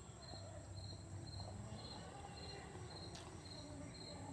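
Faint cricket chirping: a short high chirp repeating about twice a second, over a low background hum.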